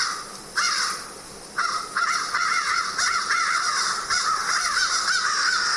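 Crows cawing: two separate caws, then from under two seconds in a continuous run of overlapping caws.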